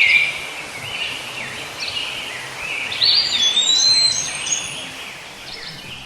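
Several birds chirping and whistling over steady outdoor background noise, with a burst of clearer whistled notes, one sliding up and then holding, about three seconds in.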